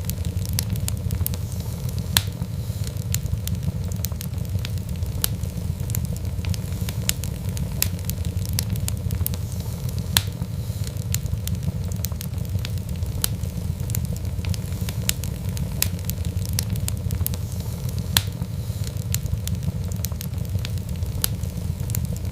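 Wood fire burning with a steady low rumble and irregular crackles and pops, a few louder pops standing out.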